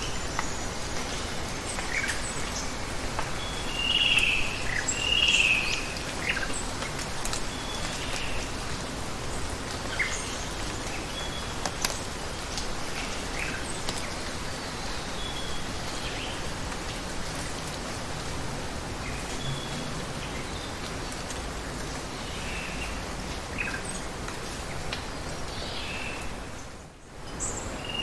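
A steady rush of water with birds chirping over it, two louder calls about four and five seconds in and scattered short calls after. The whole sound dips briefly near the end.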